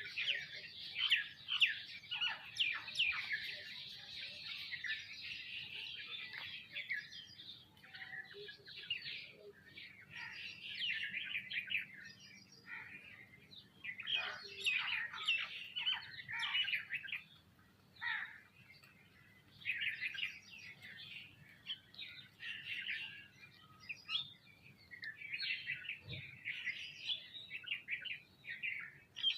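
A flock of sparrows and mynas chirping busily together while feeding, many fast overlapping chirps with a brief lull about two-thirds of the way through.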